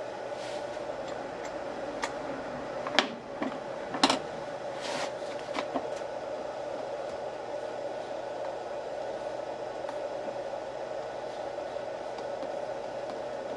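Steady fan-like hum with a few sharp clicks and knocks about three and four seconds in and a brief rustle just after.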